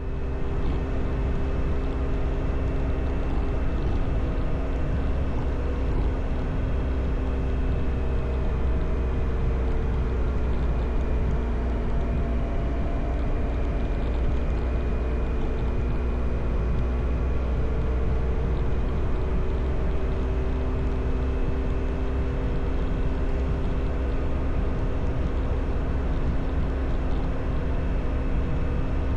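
Motorcycle engine running at a steady cruising speed, its pitch drifting only slightly, under a constant deep wind rumble on the microphone.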